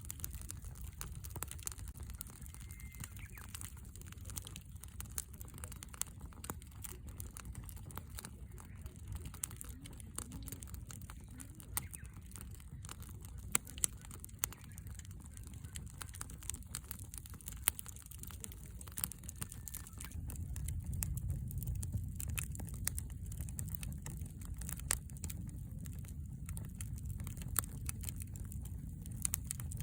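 Wood fire burning in a fire-pit stand, crackling and popping with many sharp snaps at irregular intervals. A steady low rumble runs underneath and grows louder about two-thirds of the way in.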